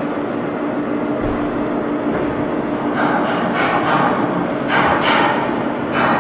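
Shipyard work noise: a steady machine hum, joined about halfway through by a series of short, sharp hisses.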